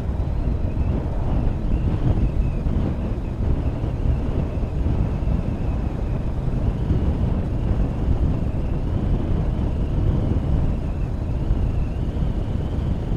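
Motorcycle riding along, with wind rushing over the camera microphone and the engine running underneath. A faint high whine wavers in pitch through it.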